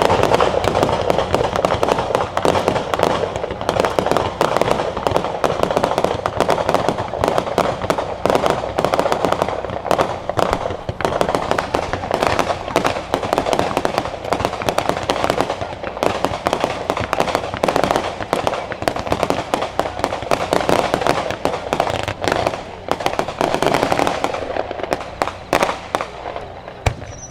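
Fireworks going off in a dense, continuous crackle of rapid pops, thinning out over the last few seconds.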